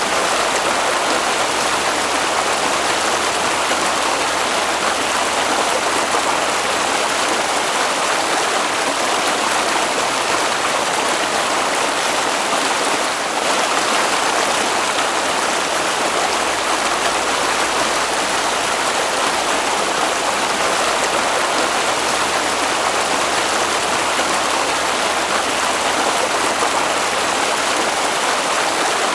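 Water of a stream flowing in a steady, continuous rush.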